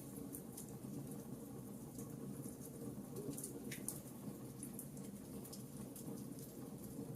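Wood fire crackling in a fireplace: scattered sharp snaps and pops over a steady low rush of burning, with a louder pop about four seconds in.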